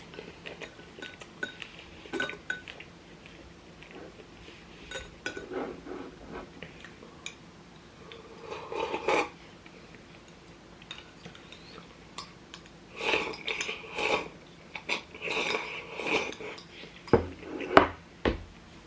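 Cutlery clinking and scraping against bowls and plates while eating, in scattered bursts, with a few sharper knocks near the end.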